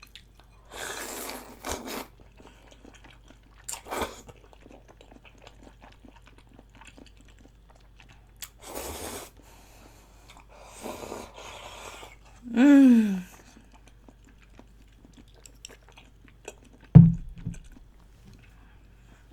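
Close-miked eating of soupy spicy chicken feet and Chinese glass noodles: chewing and slurping in separate bouts, with a short voiced hum a little after the middle. A sharp thump about three-quarters of the way through is the loudest sound.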